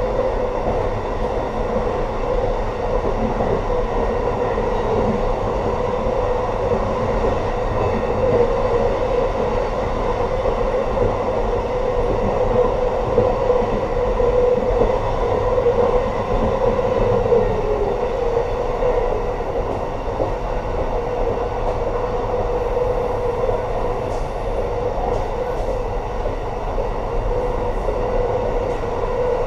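Amtrak passenger train running on the rails, a steady rumble of wheels and car body with a constant hum, heard from inside the rear car.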